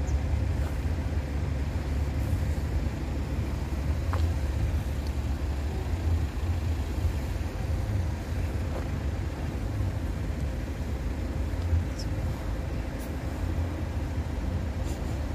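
Train passing over a level crossing: a steady low rumble with a few faint clicks.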